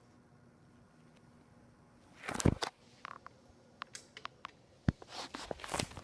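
A faint steady hum, then from about two seconds in a run of sharp clicks, knocks and rustling, loudest about two and a half seconds in and again near the end.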